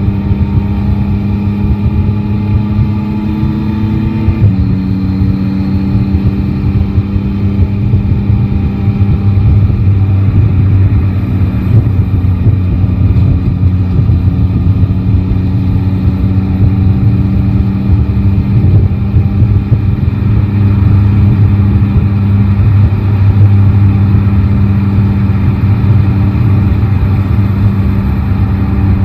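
Yamaha Tracer 9 GT's three-cylinder engine running steadily under a rider on the move, with a dense low rumble. Its note drops sharply about four seconds in and shifts again twice in the second half.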